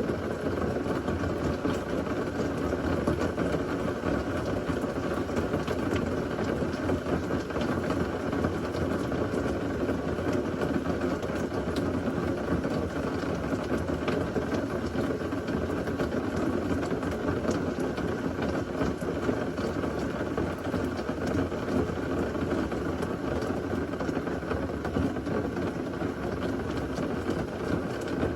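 Steady rain falling hard, an even wash of noise with faint scattered ticks of drops and no thunder.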